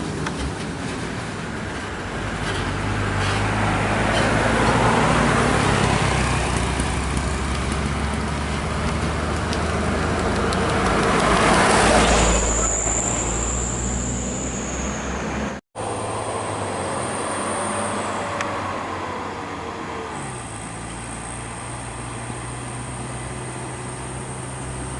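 Heavily loaded trucks running along a highway, engines and road noise swelling as they pass, twice in the first half. After a sudden cut, a steadier engine runs with a high thin whine.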